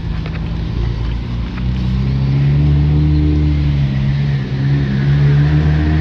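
BMW 135i's turbocharged straight-six engine running, its note getting louder about two seconds in and then holding a steady pitch, with a faint turbo whine above it.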